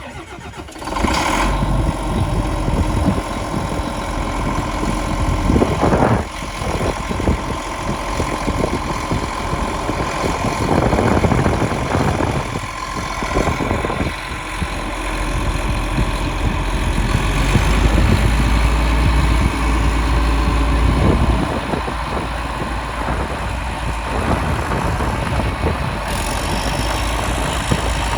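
2009 New Holland T9040 4WD tractor's diesel engine starting about a second in, then running steadily at idle.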